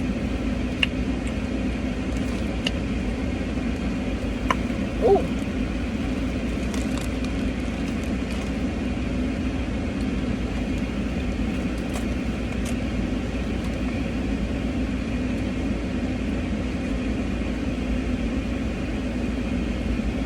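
Steady low hum of a car idling, heard from inside the cabin, with a few small clicks scattered through it.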